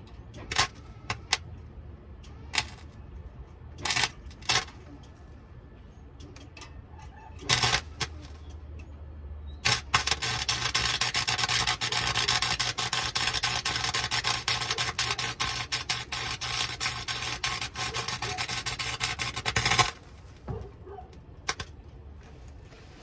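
A few separate sharp clicks and knocks, then welding on a truck exhaust: an arc crackling steadily for about ten seconds before it cuts off suddenly.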